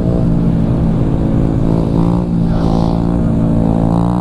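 Small motorcycle engine running at fairly steady revs, its pitch wavering only slightly.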